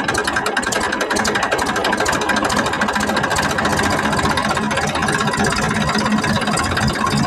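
RC toy tractor running with a steady, rapid engine-like chugging.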